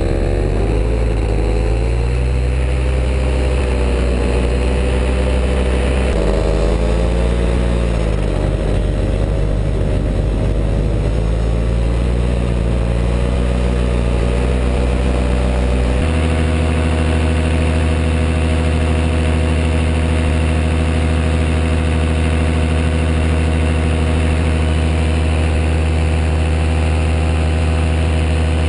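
Small aircraft's engine running steadily in flight, its pitch wavering slowly, with abrupt changes in tone about six and sixteen seconds in.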